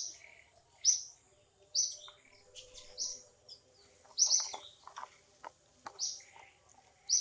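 A bird chirping over and over, short high calls coming about once a second, with a few faint clicks in between.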